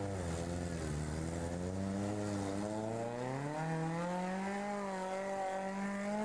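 Sporting trial car's engine under load, held at lots of revs as it climbs a muddy hill; its pitch dips briefly about a second in, then climbs and holds high for the rest.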